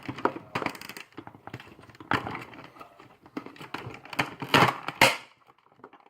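Hard plastic toy parts clicking, knocking and rattling as a small figure is pushed into a toy truck's driver's seat, a run of irregular clicks with the loudest knocks about four to five seconds in.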